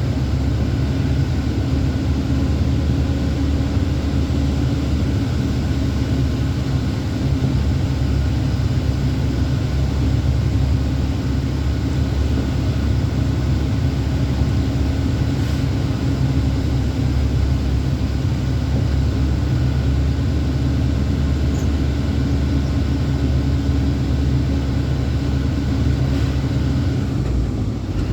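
Truck engine running steadily under way, a continuous low drone mixed with road noise. The sound shifts just before the end.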